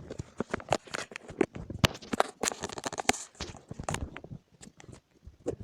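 A rapid, irregular series of close clicks, knocks and rustles: objects and clothing being handled near the microphone.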